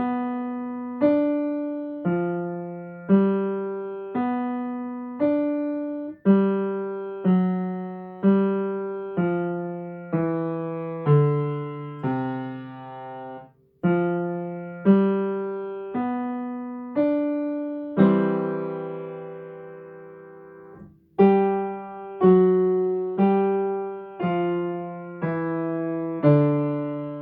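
Piano played slowly at practice tempo: chords struck about once a second, each left to ring and fade, with one longer held chord about 18 seconds in.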